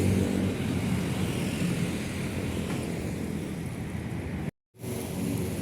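Heavy truck's engine passing by, its low hum loud at first and fading away. The sound cuts out completely for a moment about four and a half seconds in, then traffic noise comes back.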